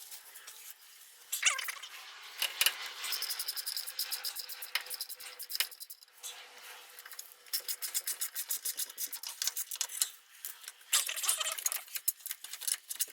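Scraping, rubbing and rattling of small metal parts being cleaned by hand, with a brief squeak about a second and a half in.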